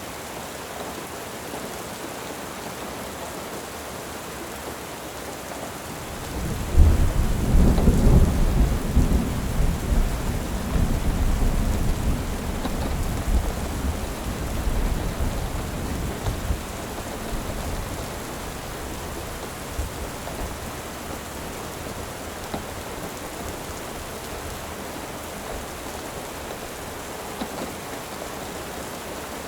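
Steady rain, with a low rumble of thunder that starts suddenly about seven seconds in, is loudest at first, and rolls away over about ten seconds.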